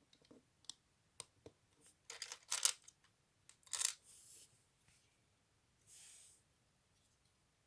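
LEGO bricks being handled: scattered small plastic clicks, with a louder clatter and rustle of pieces about two seconds in and again near four seconds, then two short, soft rustles.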